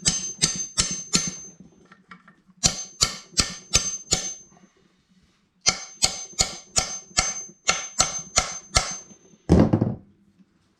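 Hammer blows on metal, driving a tight-fitting part into a small engine's cast block. The blows come in three runs at about three a second, each with a short metallic ring, and a single heavier blow falls near the end.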